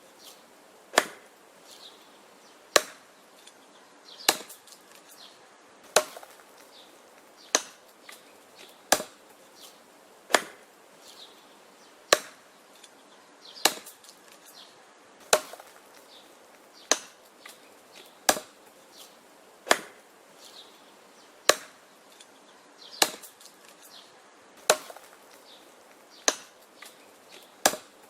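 Axe chopping wood: sharp, evenly paced chops about every one and a half seconds, with fainter knocks between some strokes.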